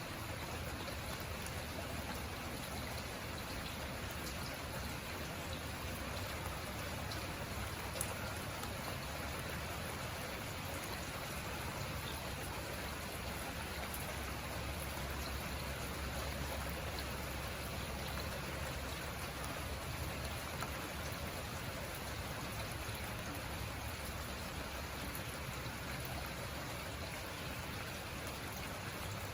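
Steady rain falling, an even hiss with scattered drop ticks and one sharper tick about eight seconds in.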